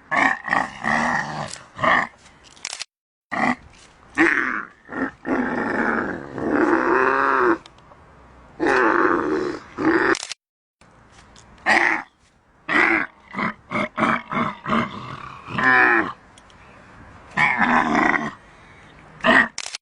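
Camel grunting and bellowing in a run of rough, wavering calls, some short and some held for a couple of seconds, broken by a few abrupt cuts to silence.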